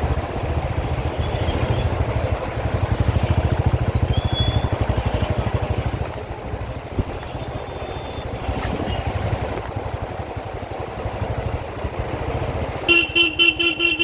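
Motorcycle engine running steadily while riding in city traffic. Near the end, a horn honks in a rapid string of short beeps, the loudest sound.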